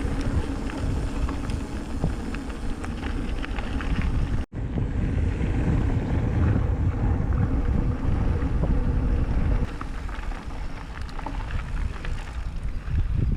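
Wind buffeting the microphone of a mountain biker's camera while riding a trail, with tyre noise and light rattling clicks from the bike. The sound drops out abruptly for an instant about four and a half seconds in.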